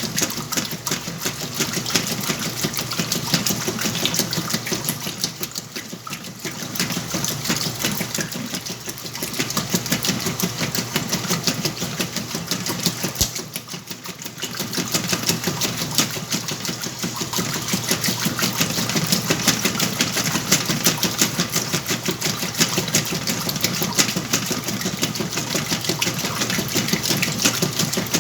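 Whirlpool washing machine running with a load of blankets: a steady rapid mechanical clatter from the motor and drum with water sloshing. It eases off briefly twice.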